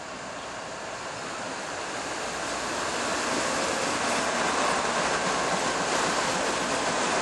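Two GE Evolution-series diesel locomotives at the head of a freight train passing close by: a dense rushing roar of engines and wheels with no horn, growing steadily louder for about four seconds as the units draw level, then holding.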